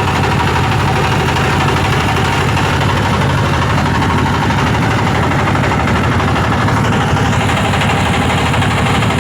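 Motorboat engine running steadily, a loud, even low throb that holds throughout.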